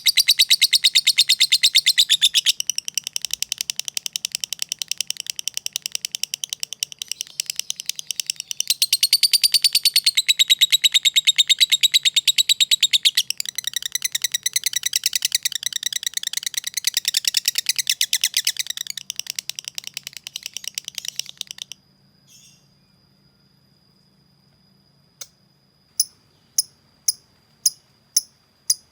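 Lovebird ngekek: a long, very fast chattering run of high chirps that breaks off about three-quarters of the way through. Then there is a near-quiet stretch with a thin steady high tone, and sharp ticks about every 0.6 s near the end.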